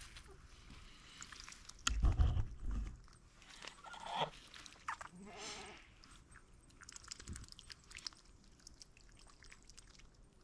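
Farm animals bleating, two short calls about four and five and a half seconds in. A louder low rumble comes about two seconds in.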